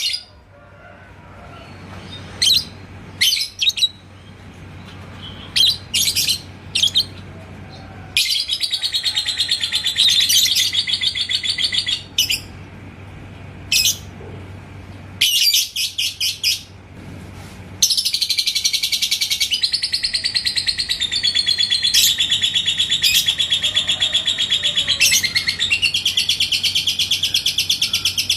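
Yellow lovebird singing: a few short chirps, then long rapid chattering trills (the 'ngekek' song). The last trill runs unbroken through the second half.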